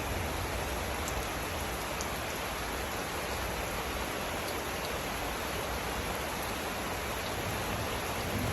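Steady rain falling, an even hiss with a low rumble underneath and a few faint drip ticks.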